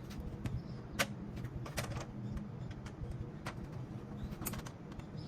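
A few scattered sharp clicks and taps, the loudest about a second in, over a low steady hum.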